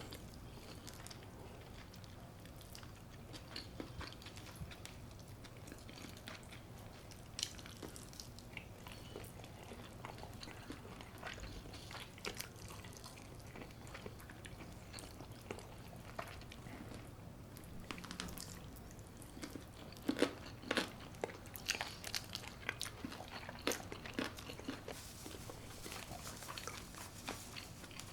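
A person biting and chewing crunchy food close to the microphone: scattered crisp crunches and mouth clicks, coming thickest about two-thirds of the way through.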